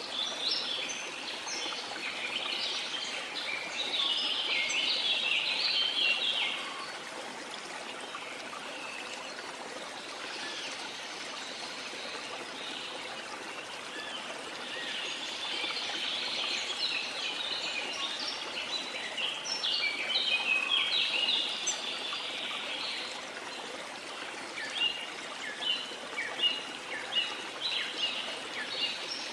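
Small birds chirping and singing in bouts over a steady wash of sea water; the song drops out for a few seconds near the start and ends in short sharp chirps.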